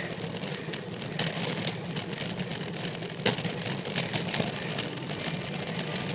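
Riding noise from a bicycle on a road climb: a steady rumble with rattling and frequent short clicks, and a sharper knock about three seconds in.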